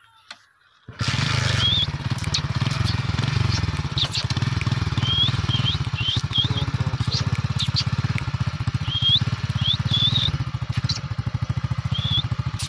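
Motorcycle engine running steadily with a fast even beat, coming in about a second in. Short rising bird chirps repeat over it.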